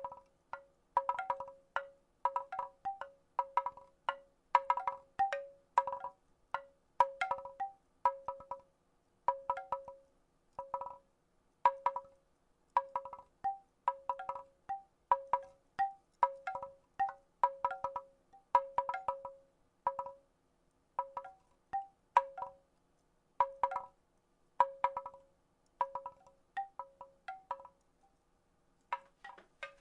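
Wooden rattle shaken in short clattering bursts, about one a second. Each burst is a cluster of sharp clicks with a brief pitched wooden ring.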